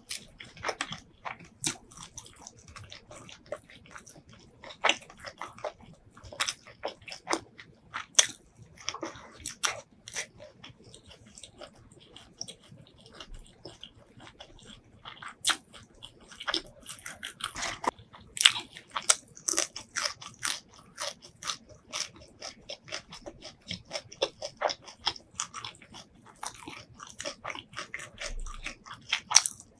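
Close-miked eating sounds: a person chewing and crunching food, with many sharp, irregular clicks and crackles.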